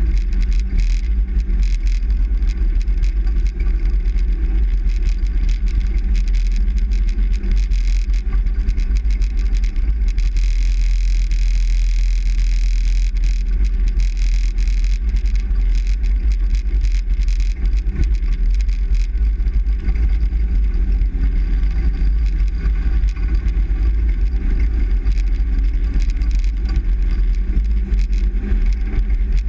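Truck on the move, heard from inside the cab: a steady, deep rumble of engine and road noise.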